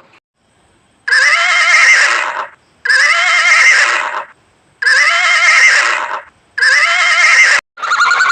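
A horse whinnying four times in a row, each call a loud, quavering neigh of about a second and a half, with short gaps between them.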